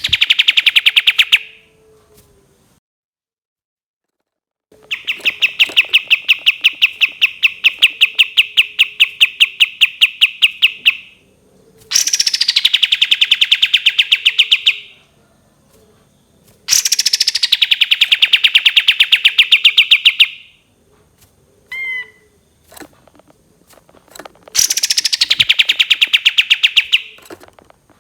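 Kapas tembak songbird singing its long 'tembakan' bursts: five loud runs of fast repeated notes, about seven a second, each opening with a quick downward sweep and lasting a few seconds, with a few short chirps between the fourth and fifth runs.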